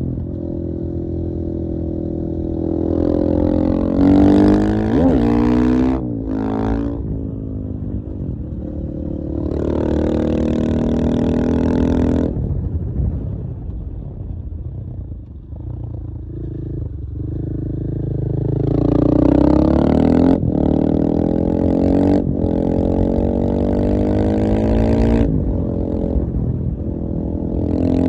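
KTM 450 EXC-F single-cylinder four-stroke enduro motorcycle engine under way, repeatedly revving up in rising pitch and dropping back as gears change. There is a quieter stretch off the throttle about halfway through before it pulls hard again.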